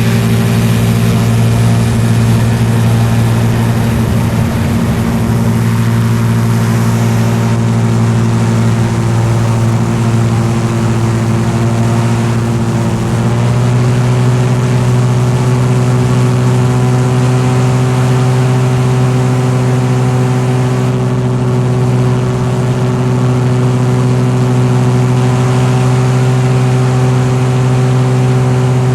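Vehicle engine running steadily at a constant cruising speed, a steady drone that steps slightly higher in pitch about halfway through and holds there.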